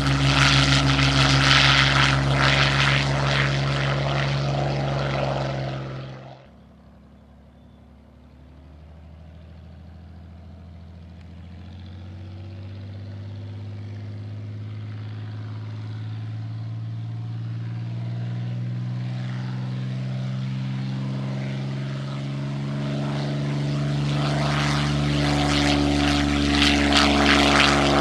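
A WWII piston-engined propeller fighter running loud at takeoff power cuts off abruptly about six seconds in. A second propeller fighter's engine then starts faint and grows steadily louder to a full, loud run by the end, as it comes closer.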